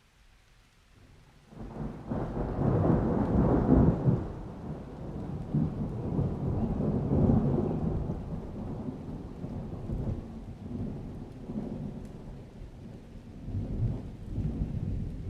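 Thunder from a rainstorm rumbling in about a second and a half after a near-quiet start. It is loudest for a couple of seconds, rolls on and slowly dies away, then swells again near the end.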